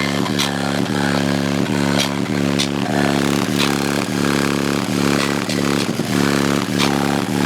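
Bass-heavy music played loud through three Sundown SA-8 8-inch subwoofers in a ported box, a deep bass note pulsing about twice a second.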